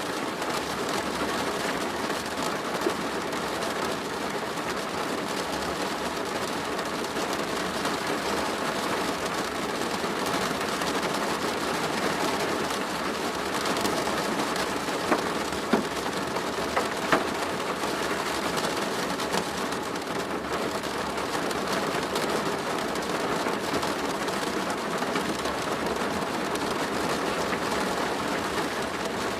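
Steady rain falling on a plastic roof: a dense, even patter of drops, with a few louder single drops about halfway through.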